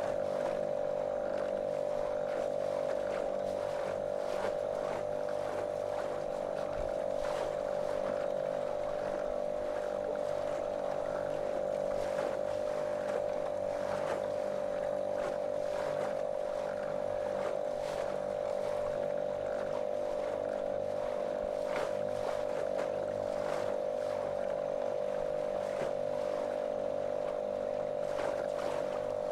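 A small motorboat's motor running steadily at a constant, monotonous pitch, with water rushing and splashing along the hull.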